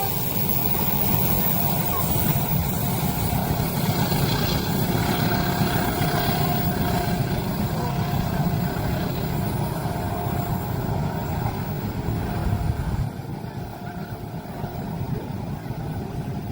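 A train passing at a level crossing: a steady heavy rumble of the train running over the rails, which drops off suddenly about thirteen seconds in.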